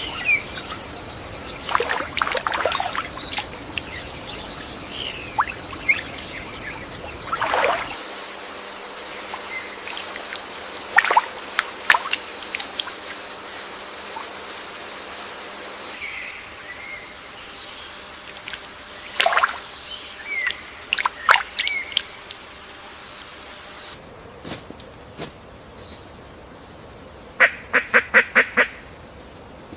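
Birds calling in scattered short chirps and sweeping notes over a steady forest hiss, with a rapid run of about six evenly spaced calls near the end. The background ambience shifts abruptly about every eight seconds.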